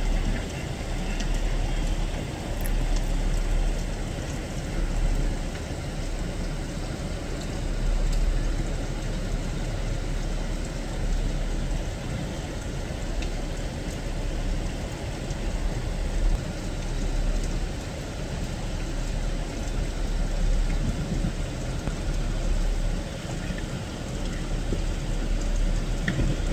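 Steady hiss of rain falling on wet ground and puddles, with a low rumble underneath.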